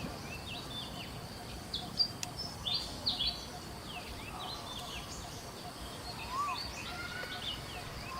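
Forest ambience of birds chirping: many short, quick high chirps over a steady background hiss, with a few lower whistled calls that rise and fall near the end.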